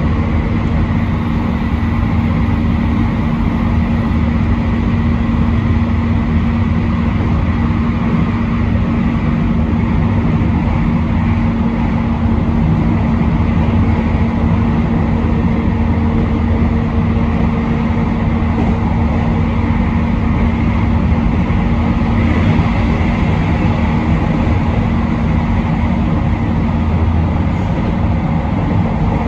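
Train running steadily on the line, heard from the front cab: even rumble of wheels on rail with a steady hum of unchanging pitch.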